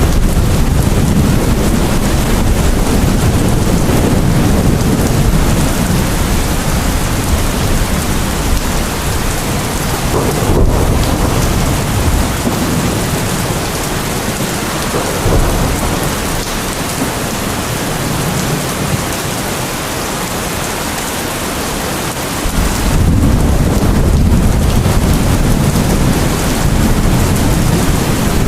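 Steady heavy rain with a low rolling rumble of thunder underneath. The rumble fades about twelve seconds in and comes back abruptly near the end.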